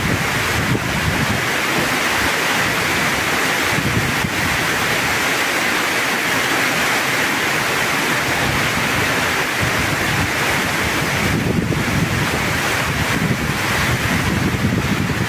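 Heavy tropical rain pouring down in a steady loud hiss, with an uneven low rumble of wind buffeting the microphone.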